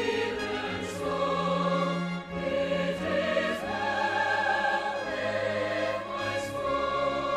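Closing music: sustained choral singing with orchestral accompaniment in slow, held chords.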